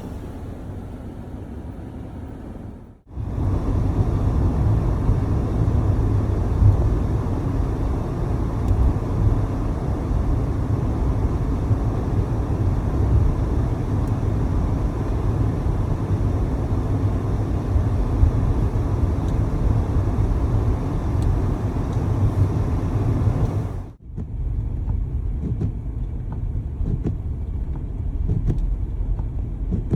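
Steady low rumble of a car, heard from inside the cabin. It comes in three stretches joined by abrupt cuts, about three seconds in and again about six seconds before the end.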